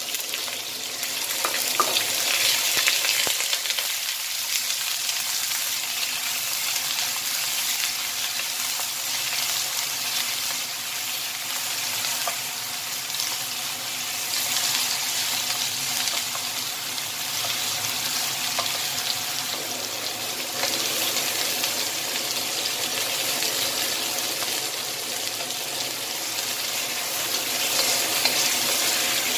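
Chicken wings sizzling steadily as they fry in hot oil in a wok, with a wooden spatula now and then pushing and turning them.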